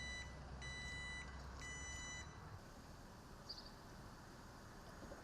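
Vehicle back-up alarm beeping, three beeps about a second apart, over a low engine rumble that fades out about two and a half seconds in.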